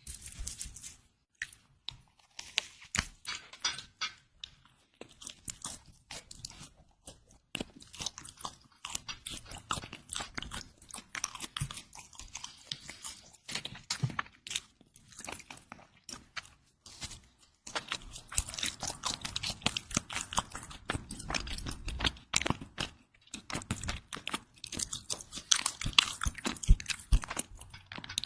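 Close-miked crusty bread being bitten and chewed: irregular crisp crunches in clusters, with short pauses between mouthfuls.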